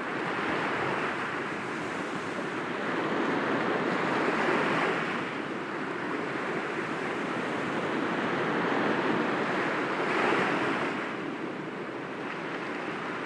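Sea waves breaking gently against rocks: a steady wash of surf that swells about four seconds in and again about ten seconds in.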